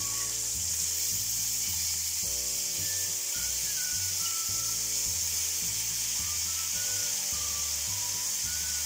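Chicken fillets sizzling steadily as they fry in oil in a stainless steel pan, turned over with a metal fork. Soft background music plays underneath.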